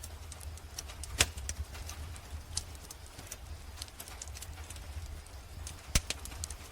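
Wood fire in a fireplace crackling, with scattered small clicks and two louder pops, one about a second in and one near the end, over a steady low rumble.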